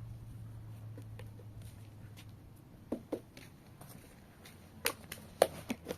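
A low steady hum that fades over the first two seconds, then a handful of scattered sharp knocks and clicks, the sharpest about five and a half seconds in.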